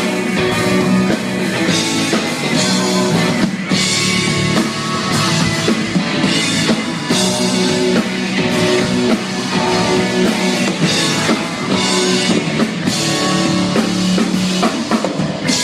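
Live rock band playing an instrumental passage between vocal lines, with a drum kit keeping a steady beat under guitar.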